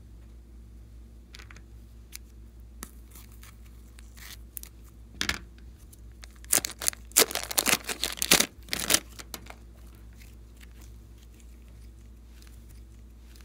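Bursts of crackling, crinkling handling noise as slime and its plastic packaging are worked by hand. The bursts are loudest and densest from about six to nine seconds in.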